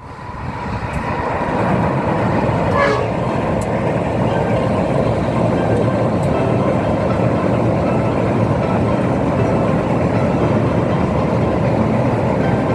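A train passing close by with a steady, loud rolling rumble that builds over the first two seconds, with a few sharp clicks along the way.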